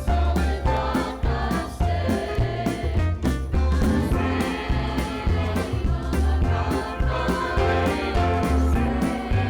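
Church choir singing a hymn over instrumental accompaniment with a steady beat and a deep bass line.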